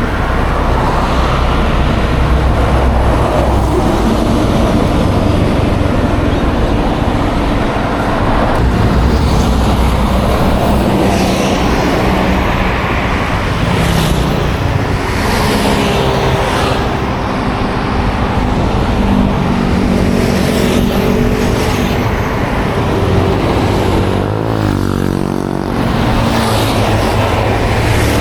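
Yamaha Aerox 155 scooter's single-cylinder engine running under way through city traffic, its pitch rising and falling with the throttle, with other vehicles passing close by.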